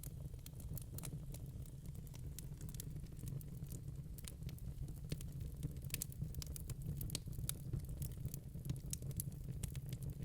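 Log fire crackling in a fireplace: irregular sharp pops and snaps over a steady low rumble of the flames.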